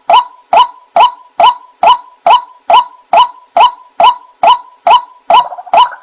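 White-breasted waterhen (ruak-ruak) call: a short, loud note repeated at a very even pace, about two and a half a second. Near the end a rougher chatter of further calls begins to layer in.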